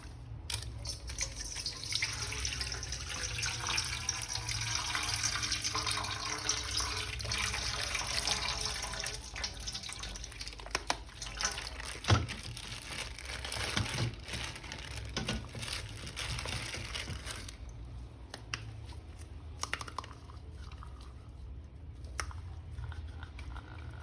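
Water running from a tap and splashing, with a few sharp knocks partway through. The flow stops about seventeen seconds in.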